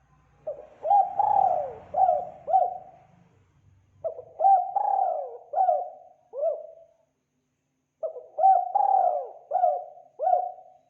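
Spotted dove cooing: three phrases of about five notes each, a second or so apart.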